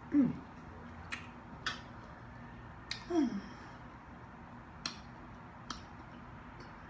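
A woman chewing a mouthful of fried shrimp: sharp lip-smack clicks every second or so, and two short 'mm' hums that fall in pitch, one at the start and one about three seconds in.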